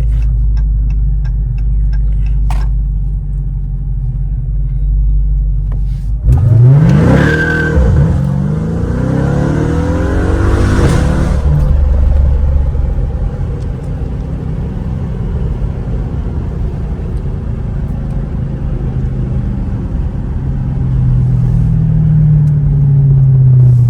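Supercharged 6.2-litre V8 of a 2023 Dodge Charger Hellcat on its stock exhaust, before the mid-muffler delete: a low rumble, then it revs up sharply about six seconds in. The pitch climbs and swings for several seconds before settling back, with a smaller rise near the end.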